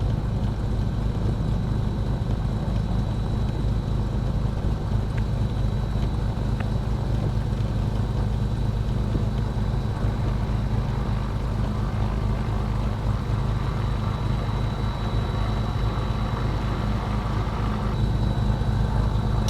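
The Cessna 310's twin piston engines running at low power, heard from inside the cockpit as a steady, unbroken drone with a faint high whine over it.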